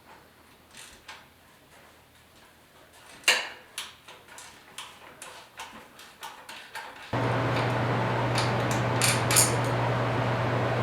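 Light metallic clicks and taps of hand tools and small metal parts being handled during work on a motorcycle part. About seven seconds in, a steady mechanical hum with hiss starts abruptly and continues, louder than the clicking.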